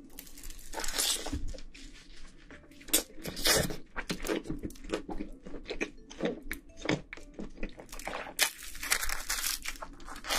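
Crunching and chewing of crisp food: a run of irregular crunches and crackles.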